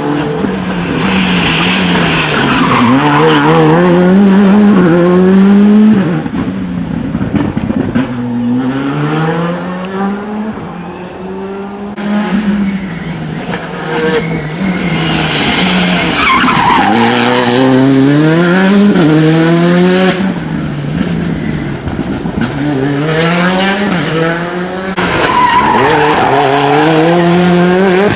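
Rally cars passing one after another at speed, each engine climbing in pitch and dropping back at the gear changes, with a falling pitch as each goes by. There are three loud passes, with quieter engine sound in between.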